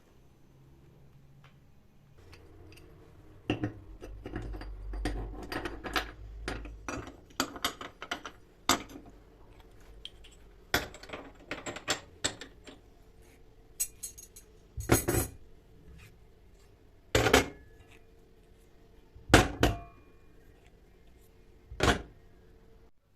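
Dishes and cutlery being handled: an irregular run of clinks and knocks, several of them ringing briefly, with a low rumble about four to seven seconds in.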